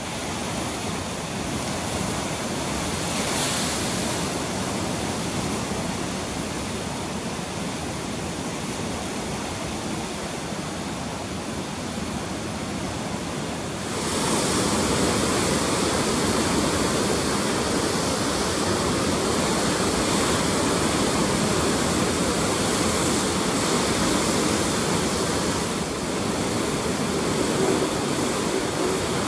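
Ocean surf breaking and washing in a steady rush, the swell that follows a typhoon; it becomes suddenly louder and fuller about halfway through.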